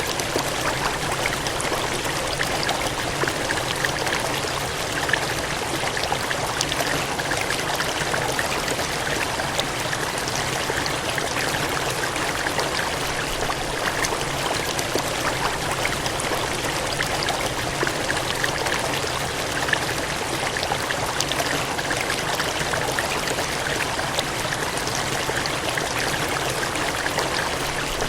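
Gushing, cascading water: a steady, even rush with many small splashes and crackles, holding the same level with no change.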